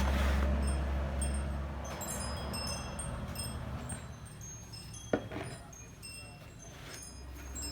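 Wind chimes tinkling, with scattered high ringing notes throughout. A low rumble fades out over the first couple of seconds, and a single sharp knock sounds about five seconds in.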